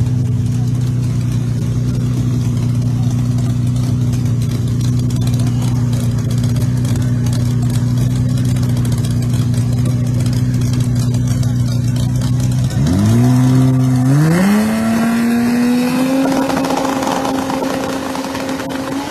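Drag race cars' engines running at a steady high idle at the starting line; about 13 seconds in the revs climb in two quick steps and are held higher as the cars stage for the launch.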